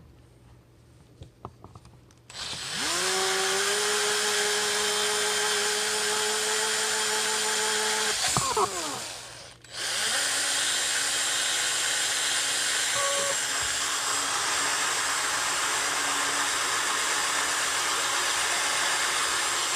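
Electric drill spinning an engine valve against 2000-grit sandpaper to polish it. The motor starts about two seconds in with a rising whine and runs steadily. It stops briefly a little before halfway, then starts again at a lower pitch and runs steadily.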